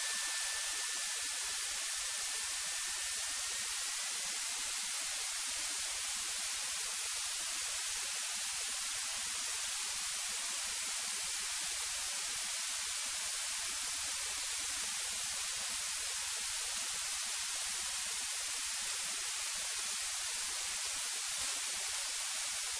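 Steady electronic hiss of a cockpit intercom audio feed, with no engine sound coming through. A faint, thin high tone is heard in the first few seconds, rising slightly before it fades.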